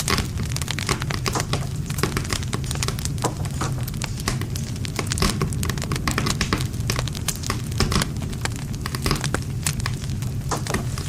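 Wood campfire burning, with dense, irregular crackles and sharp pops of the wood over a steady low rumble of the flames.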